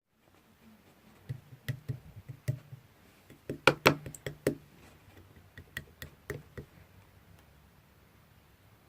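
A run of irregular knocks and clicks, like hard objects being handled and set down. The knocks come in a loose cluster, loudest about four seconds in, then thin out and stop.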